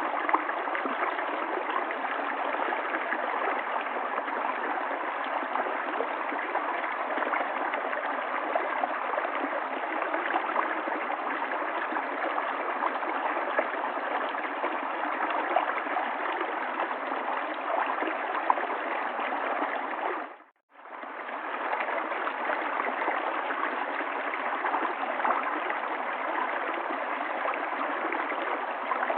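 River water flowing in a steady rush. About two-thirds of the way through, it briefly fades to silence and then comes straight back.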